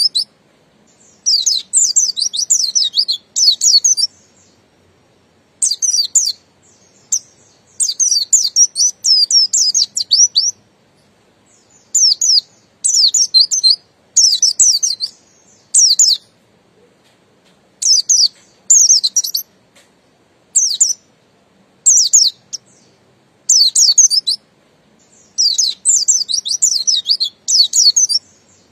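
Pleci buxtoni white-eye singing: a series of high, rapid twittering phrases, each from half a second to a couple of seconds long, broken by short pauses.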